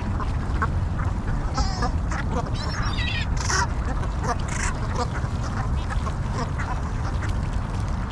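A flock of waterfowl calling: many short overlapping quacks and honks over a steady low rumble.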